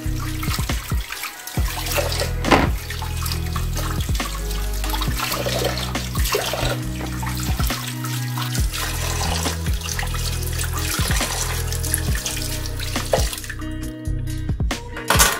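Water running from a tap into a sink, with a few knocks. The water stops shortly before the end.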